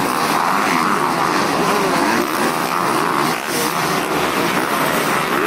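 Several motocross dirt-bike engines running together, their pitches rising and falling over one another as the bikes rev.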